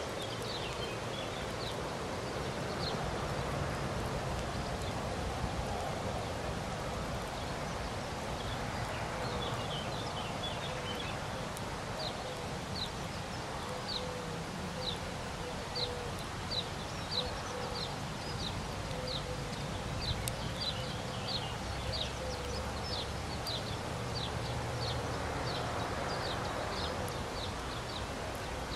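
Open-air ambience: a steady wash of wind noise with a faint steady hum, and from partway in a bird repeating short, high, falling chirps, about two a second.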